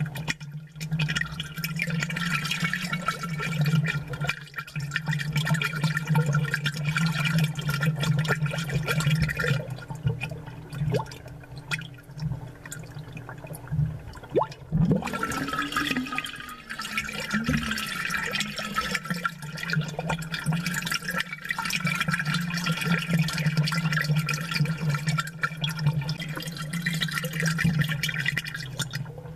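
Aquarium water bubbling and gurgling from an aerator, amplified and close up, with scattered small pops over a steady low hum. The bubbling thins out for a few seconds partway through, then picks up again.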